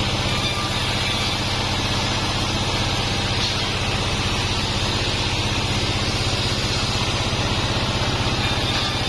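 36-inch bandsaw mill running steadily: a constant low machine drone with a fast, even pulsing and a hiss above it.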